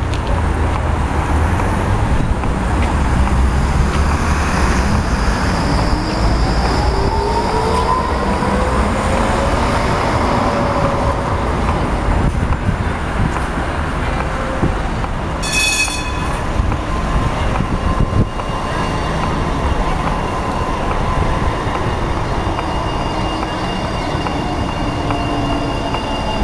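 Tram traffic at a city stop: an electric tram's drive whine rises steadily in pitch as it pulls away, over constant street noise. About halfway through comes a short, high, ringing chime, and near the end a thin, steady high-pitched tone.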